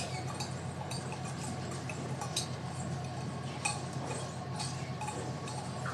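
Steady low hum of a squid-jigging vessel's machinery, with scattered irregular clicks and clinks from gear working on deck.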